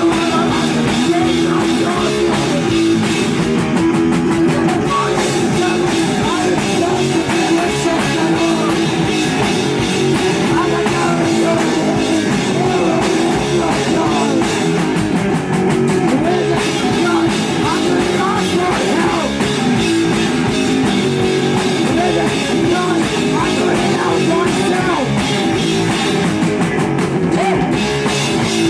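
Live rock band playing loud with guitar, bass and drum kit.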